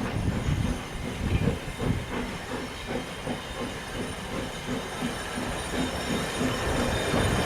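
Steam-hauled heritage train running, heard from a carriage window: a steady rumble and hiss with a rhythmic beat about three times a second.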